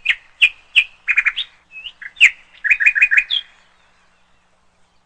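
A bird singing: a run of sharp, separate chirps, then quick trills of short repeated notes, stopping about three and a half seconds in.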